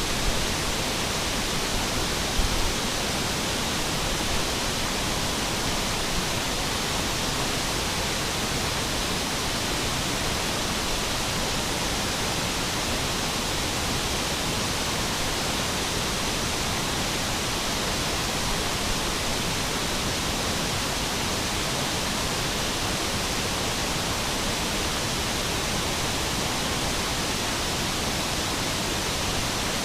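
Waterfall rushing: a steady, dense water noise, with a few faint bumps in the first few seconds.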